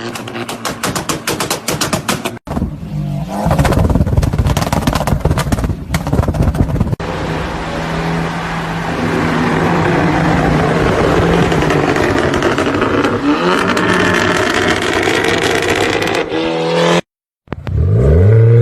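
Loud modified vehicle engines in a run of short clips: a fast rattle of firing pulses, then hard revving and a steady high-revving note that rises in pitch near the end. After a brief gap, another engine revs up sharply.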